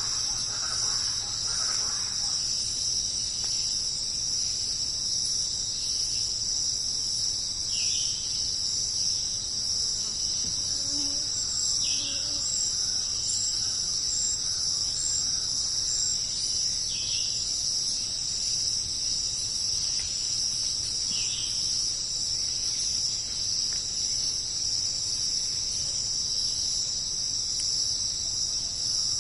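Steady, dense high-pitched chorus of rainforest insects such as crickets, unbroken throughout. Four short falling chirps stand out over it, a few seconds apart.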